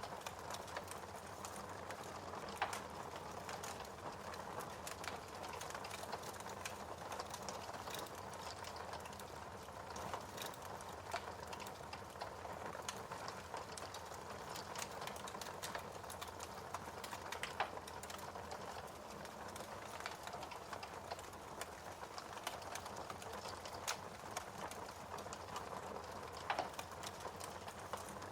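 Wood fire burning in a fireplace: a steady hiss of flames with irregular crackles and pops of burning logs.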